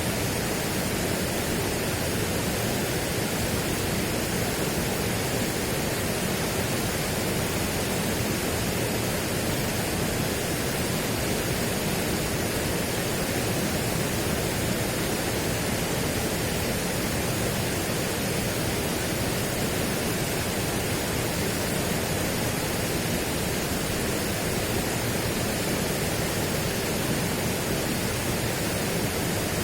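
Steady, even rushing noise spread across low and high pitches, with no rise and fall.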